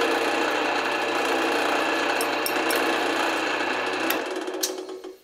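A bench drill press running steadily, with a screw chucked in its spindle being turned down. The motor is switched off about four seconds in, and the running noise dies away.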